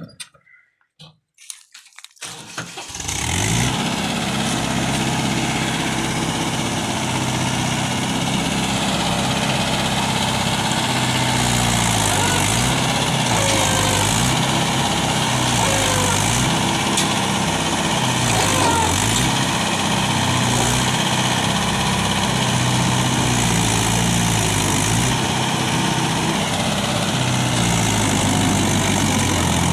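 Mahindra tractor's diesel engine running under load, its revs rising and falling every couple of seconds. It sets in after a near-silent gap of about two seconds at the start.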